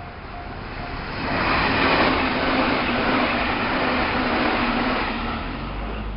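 Meitetsu Panorama Super limited-express electric train passing at speed. The wheel and rail noise swells about a second in, holds with a steady low hum, and eases off near the end.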